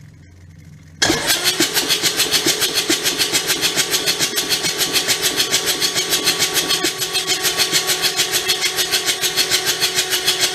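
Kubota D722 three-cylinder diesel cranked on its electric starter for about ten seconds, with a steady, even pulse of compression strokes. It keeps turning over without firing, a sign that no fuel is reaching the injectors from the freshly installed injection pump. The cranking starts about a second in and stops at the very end.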